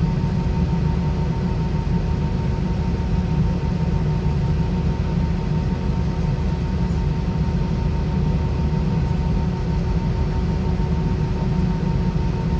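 Steady cabin noise inside an Airbus A320-200 with IAE V2533 engines: a continuous deep rumble with two steady tones running over it.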